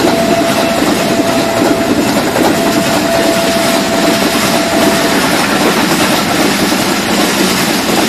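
Express passenger train coaches passing close by at speed: a loud, steady rush of wheels on the rails, clattering over the rail joints. A thin steady whine sounds over it and stops about five seconds in.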